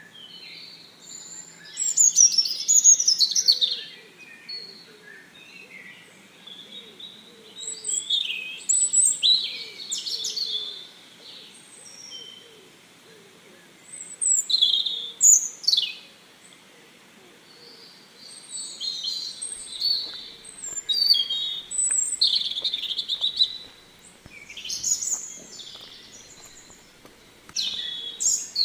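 Birds chirping in short bursts of quick high-pitched notes, one to two seconds long, with quieter pauses between.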